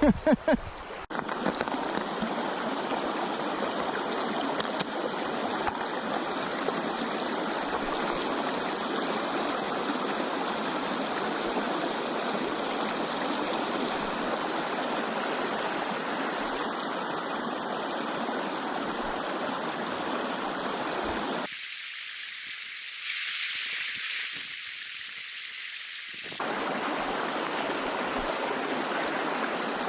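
A river running high after floods: a steady rush of flowing water. For about five seconds past the middle the deeper part of the rush drops away, leaving only a thin hiss.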